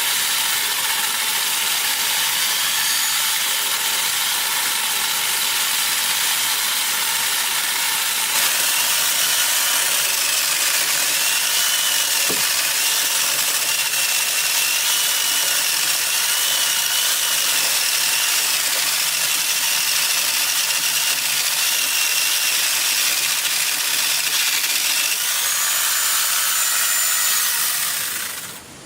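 A woodworking power tool running steadily: a continuous harsh noise with a faint wavering whine, cutting off shortly before the end.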